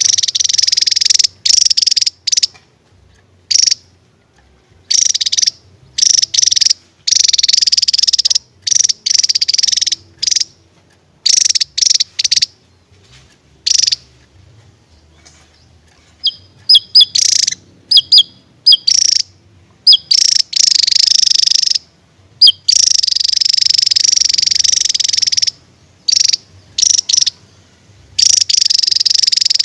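A Javan tesia singing loudly: high, fast buzzing trills in repeated bursts of a fraction of a second to about two seconds, separated by short pauses, with a few clear whistled notes about halfway through.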